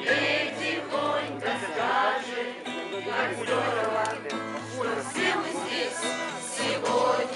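A group of people singing a song together around a campfire.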